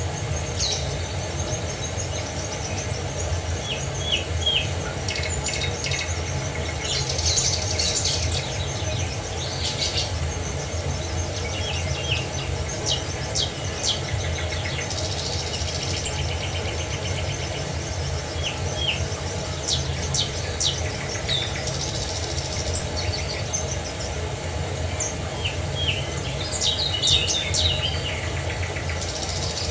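Several songbirds chirping and trilling in short, scattered phrases over a steady low rush of falling water.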